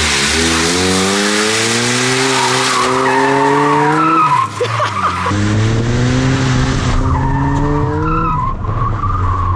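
Ford Probe's engine revving hard under acceleration, its pitch climbing steadily, dropping about four seconds in, then climbing again. For the first few seconds a loud scraping hiss comes from the rear wheels, which ride on slide trays, skidding over the asphalt.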